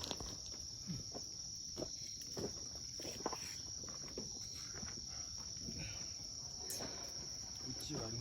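Insects chirring in one steady, high, unbroken tone, with scattered small knocks and clicks close by.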